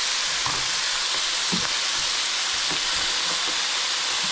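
Seasoned oxtail pieces sizzling as they brown in hot oil in a pan: a steady frying hiss with a few faint low knocks.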